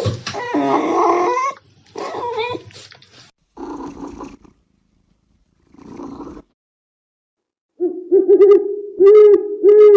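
A run of separate animal calls, each about a second long with short silences between, ending in a held, steady call broken by three or four pulses in its last two seconds.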